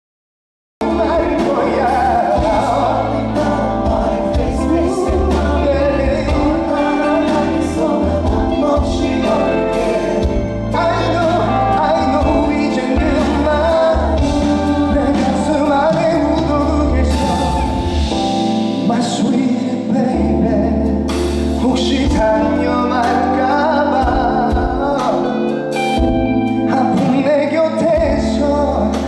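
Live concert music: a male singer singing with band accompaniment and a heavy bass line, cutting in suddenly out of silence just under a second in.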